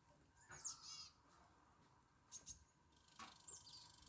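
Small songbirds chirping faintly in short, high, falling calls, including a quick run of notes about a second in and more calls near the end. A faint, steady, high hiss starts about three seconds in.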